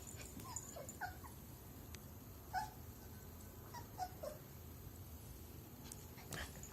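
A dog whimpering faintly: short high whines that drop in pitch, coming in a few small clusters, with a brief knock near the end.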